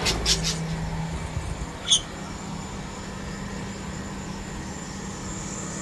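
A few quick clicks, then a single short, high budgie chirp about two seconds in, over a steady low hum and hiss.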